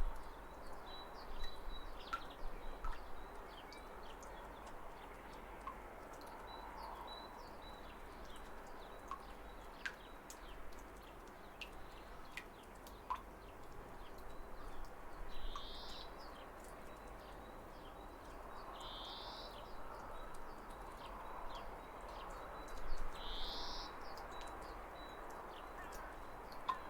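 Steady rush of falling water with birds chirping over it: scattered short high chirps and, in the second half, a rising call repeated every three to four seconds.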